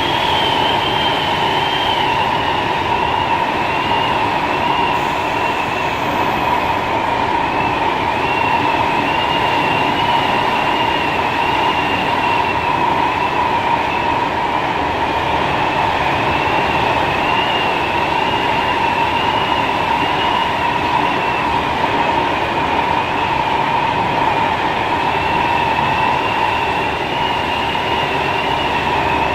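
Kawasaki C151 metro train running steadily along the line, a continuous rumble with a steady hum and a high, wavering squeal above it.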